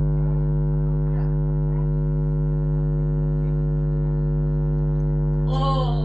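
Steady electrical mains hum, loud and unchanging. Near the end, music with gliding pitches begins to come in over it.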